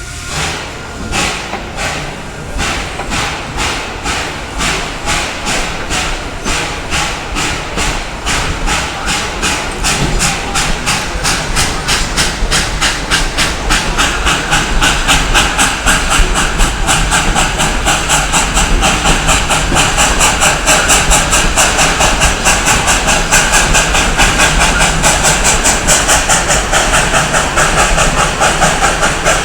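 Steam locomotive pulling away, its exhaust chuffs at first slow and separate, then quickening to a rapid steady beat and growing louder as the train gathers speed.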